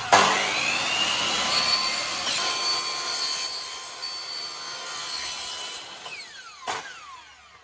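Power tool cutting, with a steady high whine over a rasping noise for about six seconds, then winding down.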